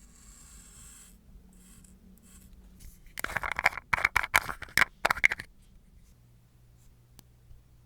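A run of rapid scratchy scraping strokes lasting about two and a half seconds in the middle, after a faint hiss about a second long near the start.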